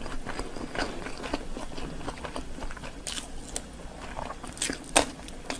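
Mukbang eating sounds: close chewing and mouth-smacking on a mouthful of steamed dumpling, full of small sharp clicks. Louder crunching bites come near the end as a slice of yellow pickled radish is eaten.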